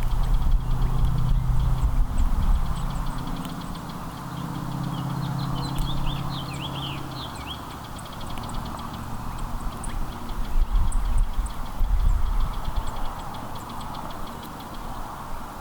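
Outdoor backyard ambience: small songbirds chirping in short rising and falling notes, over a low engine hum that fades out about halfway through, with some low rumbling later.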